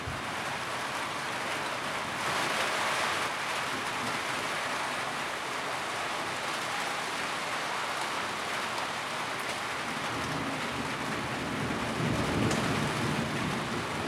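Steady rain drumming on a tin roof, swelling slightly a couple of seconds in, with a low rumble near the end.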